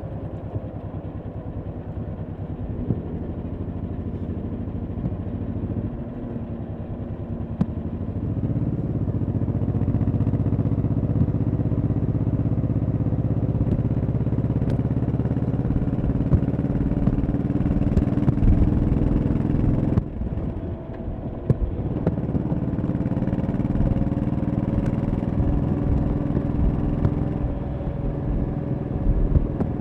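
1100cc V-twin motorcycle engine running under way, pulling harder and louder from about eight seconds in, briefly dropping off around twenty seconds in, then pulling again.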